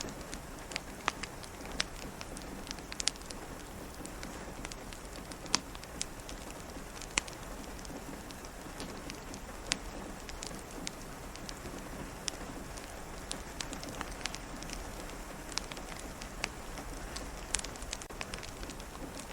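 Steady rain pattering against a window, mixed with a wood fire crackling: sharp, irregular pops and snaps over the even hiss of the rain.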